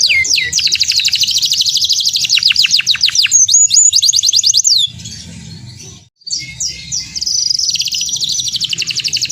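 Domestic canary singing a loud, fast song of rapid trills and quick downward-sweeping notes. The song drops away about five seconds in, then resumes about six seconds in with another fast trill.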